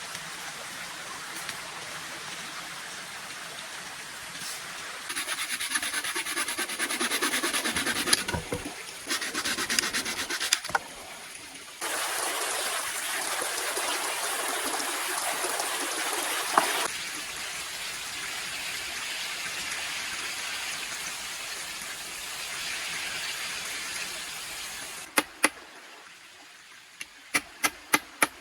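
Water running and splashing, in stretches that change abruptly in loudness. Near the end it gives way to a quick series of sharp knocks.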